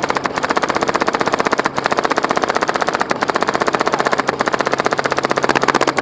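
Airsoft machine gun firing long full-auto strings at a very high rate, broken by four short pauses and stopping abruptly near the end, over a steady low hum.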